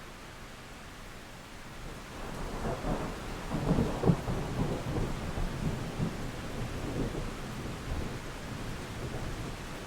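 A roll of thunder over steady rain: a low rumble builds about two seconds in, peaks with a few sharp cracks near the middle, then rumbles on and fades away.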